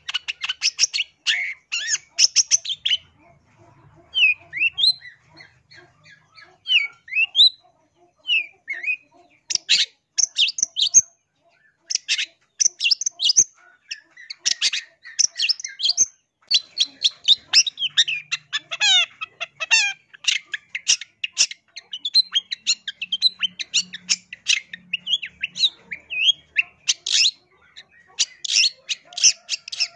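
Long-tailed shrike singing: rapid runs of short, harsh chattering notes, broken by short rising whistled notes a few seconds in.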